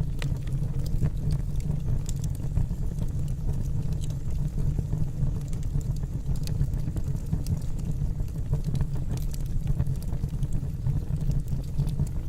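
Wood fire burning in a fireplace: a steady low rumble from the flames, with frequent irregular sharp crackles and pops from the burning logs.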